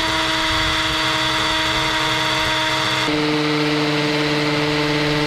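Electric drill running at a steady speed, then dropping to a slightly lower pitch about three seconds in.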